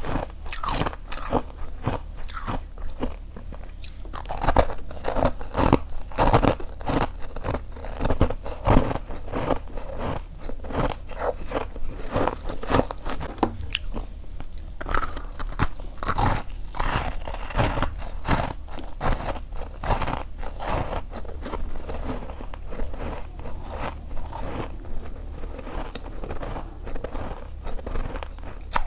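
Close-up crunching and chewing of freezer frost: many sharp, irregular crunches of packed ice crystals being bitten and chewed in quick succession.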